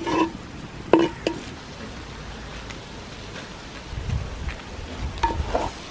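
Beef and masala sizzling as they fry dry in a clay pot, with a few sharp knocks of a wooden spatula against the pot near the start and about a second in. A low rumble comes in around four seconds in.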